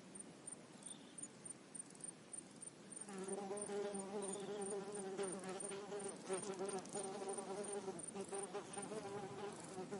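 A flying insect buzzing close by, starting about three seconds in and wavering in pitch, over a steady high insect ticking at about three beats a second.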